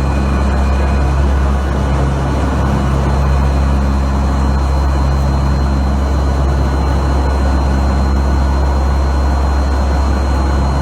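Steady drone of a hurricane-hunter turboprop aircraft's engines heard from inside the cabin: a deep, even hum with a thin high whine over it and a rush of air noise.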